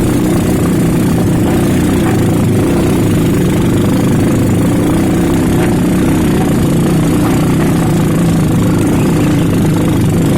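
Motorcycle engine running steadily at a loud, even level, with no clear revving up or down.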